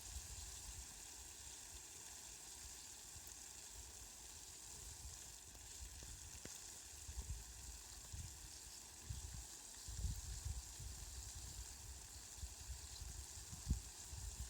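Rain falling steadily: a faint, even hiss with the odd sharper drop tick. A low rumble comes and goes underneath and grows stronger about ten seconds in.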